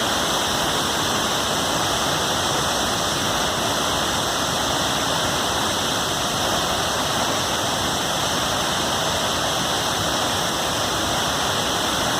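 Waterfall: a steady, unbroken rush of falling water, constant in level throughout.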